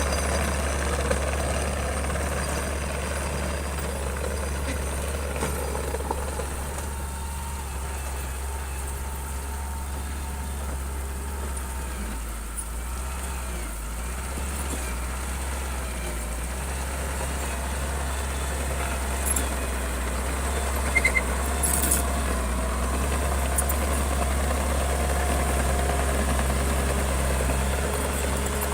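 A bulldozer's heavy diesel engine running steadily, with a deep constant hum that eases slightly partway through and picks up again near the end. There are a few brief clicks or clanks about three quarters of the way in.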